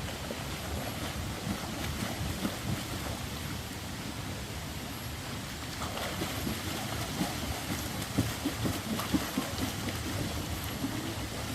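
Water splashing and sloshing over a steady rush of water, with a run of sharper splashes in the second half.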